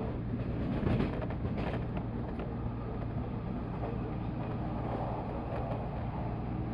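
Running noise of a JR 185 series electric train heard from on board: a steady rumble of wheels on rail, with a couple of short clicks about a second in.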